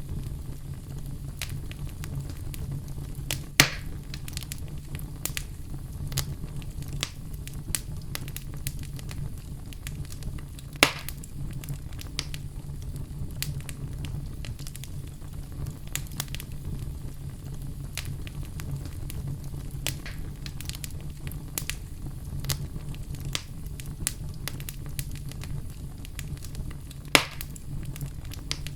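Oak logs burning in a fireplace: a steady low rumble of flame under frequent crackles, with three louder pops, about four seconds in, about eleven seconds in and near the end.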